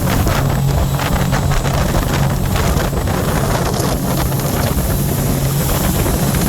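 Scarab 165 ID jet boat's three-cylinder Rotax 1503 4-TEC engine running at a steady speed while underway, mixed with rushing water and wind buffeting the microphone.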